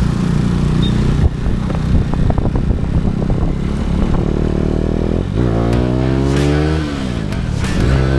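Motorcycle engine under way: a steady running note for the first few seconds, then revving up hard through a gear, the pitch dropping at a gear change about seven seconds in and climbing again as it accelerates.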